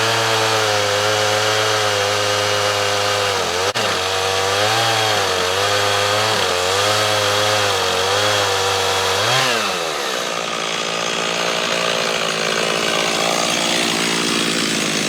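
Stihl MS 391 two-stroke chainsaw on a chainsaw mill, running at full throttle through green cedar, its pitch wavering under the load of the cut. About two-thirds of the way through the pitch briefly jumps, and the saw then runs steadier and a little quieter, as when the chain clears the end of the cut.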